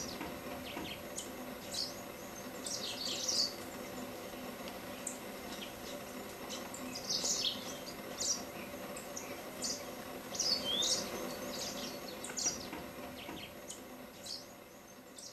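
Small birds chirping: short, high calls and brief trills scattered throughout, over a steady low background drone, fading toward the end.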